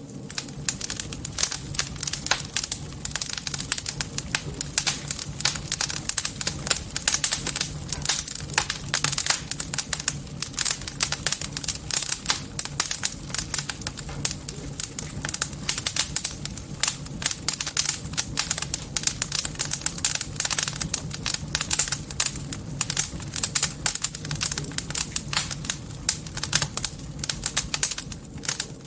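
Campfire burning, the wood crackling with dense, irregular snaps and pops throughout, over a faint low hum.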